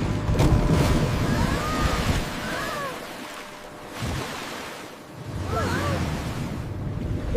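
Stormy sea sound effect: rushing waves and wind that surge, ease off in the middle and surge again. A few short high cries rise and fall over the noise.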